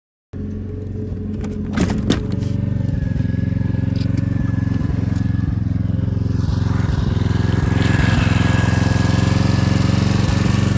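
An engine running steadily, a loud low drone with a couple of clicks about two seconds in. It cuts in suddenly, right at the start.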